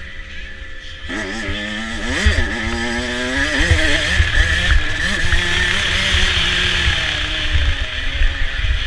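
Motocross bike engine under hard throttle on a dirt track: about a second in it picks up and revs, pitch rising and falling sharply, then runs on more steadily at speed.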